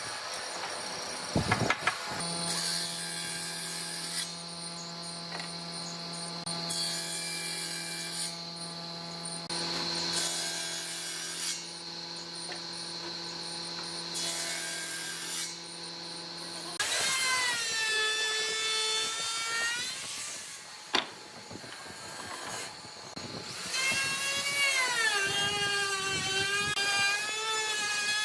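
An electric power tool working wood: its motor runs with a steady whine for about fifteen seconds, then its pitch sags and recovers twice as it bites into the wood.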